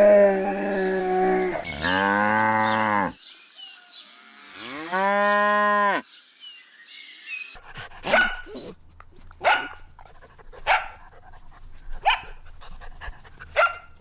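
Animal calls: three drawn-out pitched calls in the first six seconds, the last one rising and then falling in pitch. After that come six short, sharp calls spaced about a second and a half apart.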